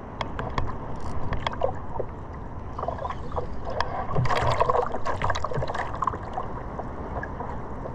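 Sea water splashing and sloshing around a surfboard, with small clicks and ticks in the first couple of seconds and a louder stretch of splashing in the middle.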